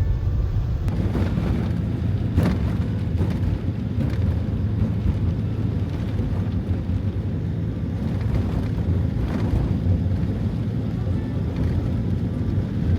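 Steady low road and engine rumble inside a moving Toyota HiAce van at driving speed, with a few faint swishes.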